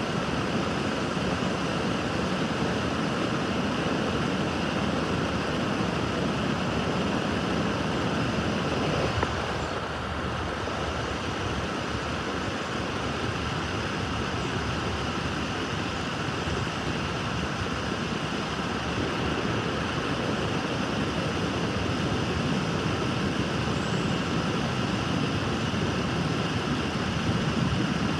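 Freight train rolling past at a grade crossing: a steady rumble of wheels on rail with a thin, continuous high ringing over it. The sound dips briefly about a third of the way through.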